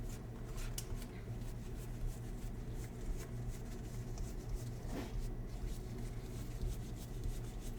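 Baseball trading cards being handled and sorted: light scattered rustles and clicks over a steady low hum.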